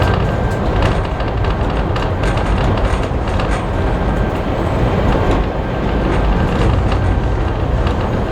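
Railway carriage running along the track behind a steam locomotive: a steady rumble with many short clicks and rattles from the wheels and the carriage.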